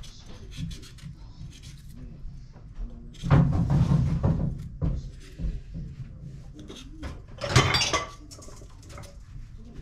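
Kitchen cooking noises: two louder spells of handling sounds, the first about three seconds in and a shorter, brighter one near eight seconds, with small clicks and knocks between them.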